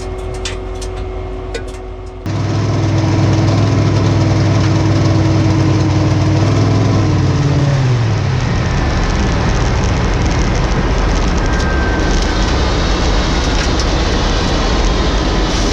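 Drag race car engine heard from an in-car camera. About two seconds in it suddenly becomes loud and runs at a steady pitch. The note falls away about eight seconds in, leaving a loud, even rushing noise.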